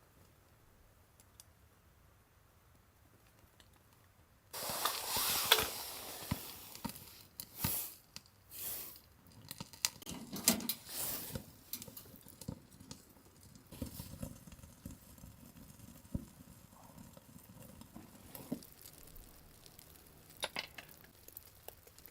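Quiet at first, then from about four and a half seconds in a run of rustling and crunching with scattered taps and clicks, loudest in its first second or so.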